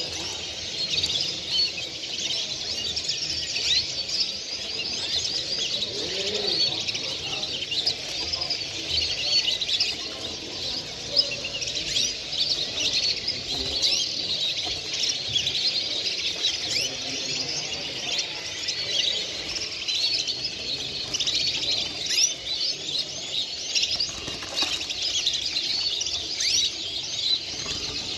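Many caged songbirds chirping and singing at once: a dense, unbroken chorus of overlapping high chirps and trills.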